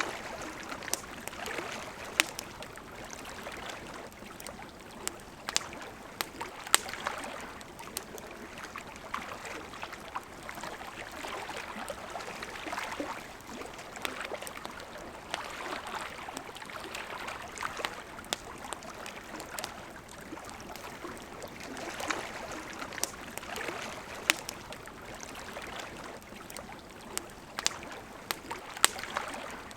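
Wood campfire crackling, with sharp irregular pops, over the steady rush of river water.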